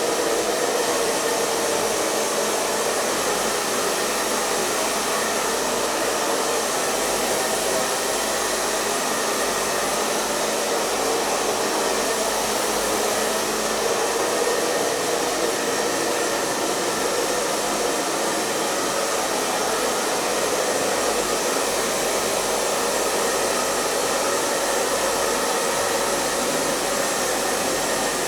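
Electric hair dryer running steadily, its fan and airflow making an even, unchanging rush of noise with a faint hum.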